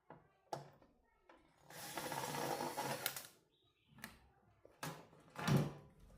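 Handling clicks and knocks of small mechanical parts, with a dense scratchy mechanical noise lasting about a second and a half in the middle; the loudest knock comes near the end.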